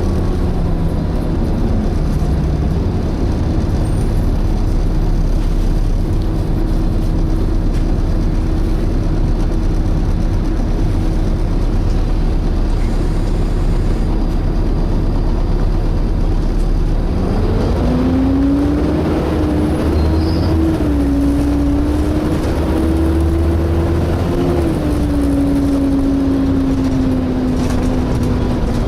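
Volvo B7TL double-decker bus heard from on board while driving: a steady drone and whine from its running gear and cooling fan. About two-thirds through, a second whine rises in pitch as the bus picks up speed, holds with small wobbles, then slowly falls near the end.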